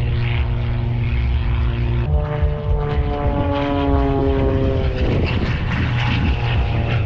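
Propeller aerobatic plane's engine running. About two seconds in, a new engine note starts and falls steadily in pitch for a few seconds as the plane passes, then gives way to a rougher, noisier engine sound.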